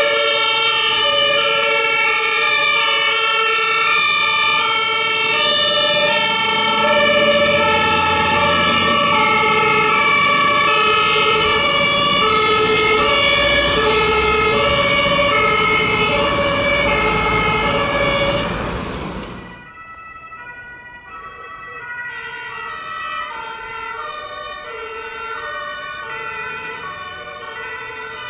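Several German two-tone emergency sirens (Martinshorn) sounding at once from fire engines on an emergency run, over the low rumble of a heavy truck engine passing close by. About 19 seconds in the sound drops abruptly, and a quieter two-tone siren carries on.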